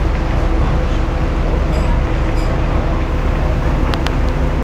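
Steady engine drone of a river excursion boat, a constant hum over a low rumble, with a few faint clicks near the end.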